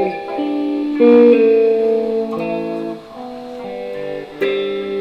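Electric guitar played unplugged and picked up by a microphone: chords are struck and left to ring, with new chords about a second in and again near the end.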